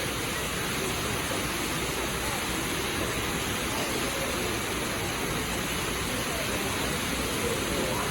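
Water pouring steadily from a leaking ceiling and splashing onto the floor below, a constant even rush of water.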